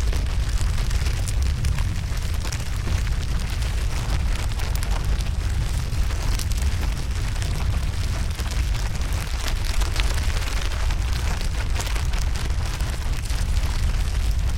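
Wood campfire burning: a steady low rumble of flames with scattered crackles of burning wood.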